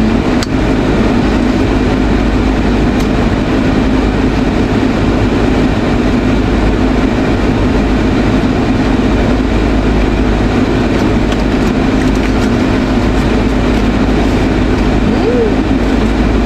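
Steady hum and hiss of a car cabin with the engine running and air blowing, unchanging throughout, with a faint click about half a second in.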